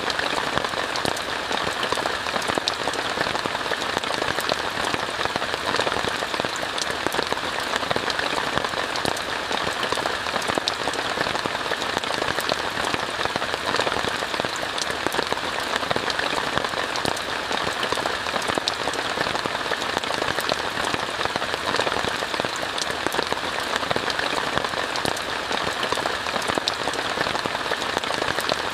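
Steady rain falling on a tent, heard from inside: an even hiss with many sharp individual drop hits, unchanging throughout.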